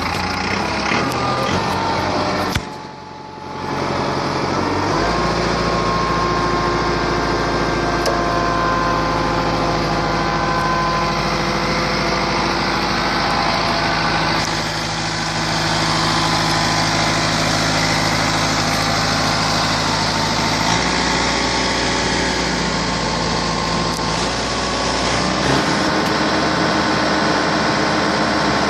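Engine running a hydraulic winch under load as it hauls up an antenna tower. It dips briefly about three seconds in, steps up in pitch about five seconds in, then runs steadily with small shifts in pitch.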